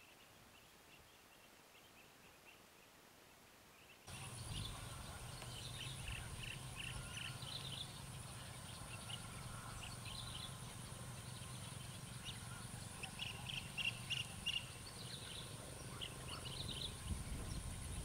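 Outdoor evening ambience of many short bird chirps. It starts faint, then about four seconds in it suddenly gets louder, with a steady high-pitched drone and a low hum under the chirping.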